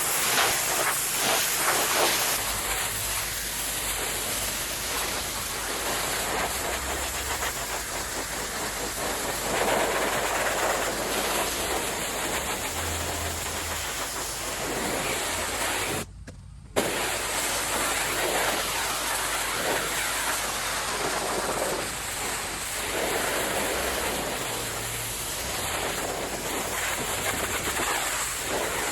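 Pressure washer spraying a high-pressure jet of water onto a deck and fence surface, a steady hissing spray that cuts out suddenly for about half a second midway before resuming.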